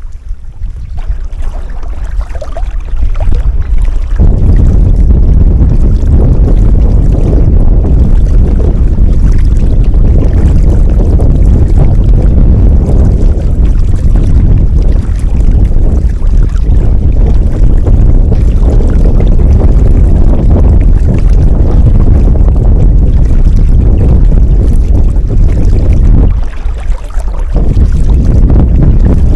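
Strong wind buffeting an action camera's microphone: a loud, low rumble that builds over the first few seconds and drops out briefly near the end.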